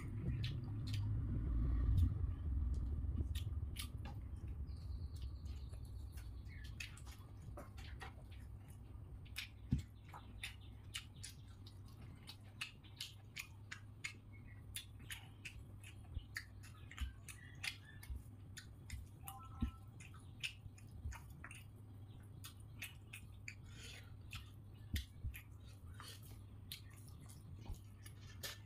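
Close-up eating by hand: chewing rice and fried pumpkin with wet mouth clicks and smacks, and fingers mixing rice on a plate. Short sharp clicks come irregularly, about one or two a second from about a third of the way in, over a dull low rumble that is louder in the first few seconds.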